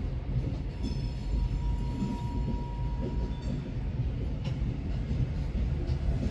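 Loaded coal gondolas of a long freight train rolling past: a steady low rumble of steel wheels on rail. A faint thin whine rises about a second and a half in and lasts under two seconds.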